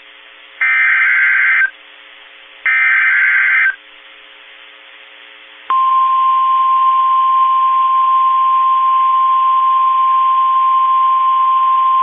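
NOAA Weather Radio emergency alert signal. Two one-second bursts of SAME digital header data, with short gaps of faint hiss between them, announce a high wind warning. About six seconds in, the Weather Radio's steady single-pitch warning alarm tone starts and holds.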